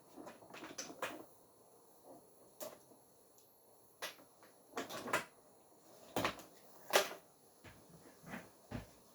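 Irregular light knocks and clicks, about fifteen of them at uneven intervals, the loudest about seven seconds in.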